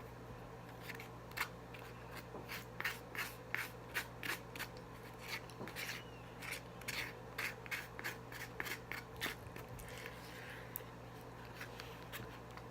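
Close-up eating sounds: a run of short, crisp clicks and scrapes, a few a second, that thin out after about ten seconds.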